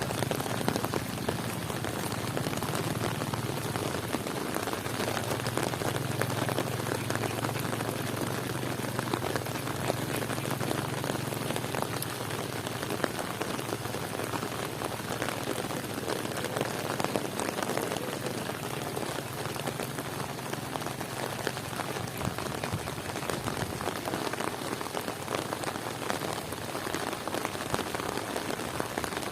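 Heavy rain falling steadily, dense with the hits of individual drops. A low rumble sits under it for several seconds in the first half.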